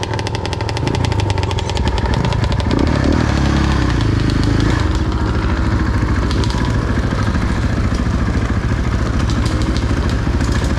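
Dirt bike engine running on the trail, its pitch shifting as the throttle changes in the first few seconds, then holding steady.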